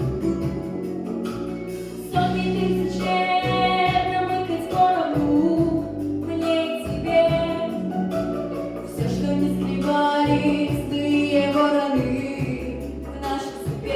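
A girl sings a pop song over a backing track. Her voice comes in about two seconds in and carries on in sung phrases.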